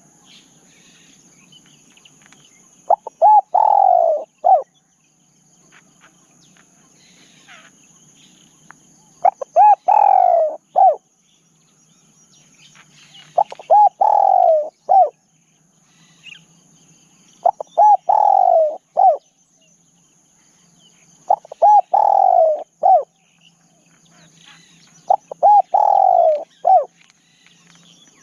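Spotted dove cooing its phrase six times, about every four seconds: two short coos, a longer falling coo and a short final note. A steady high insect buzz runs underneath.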